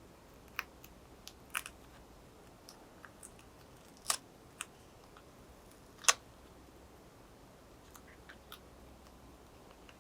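Scattered small sharp clicks and taps, about half a dozen, the loudest about four and six seconds in. They come from hands and tools working on a laptop's display assembly while its LCD cable connector is disconnected.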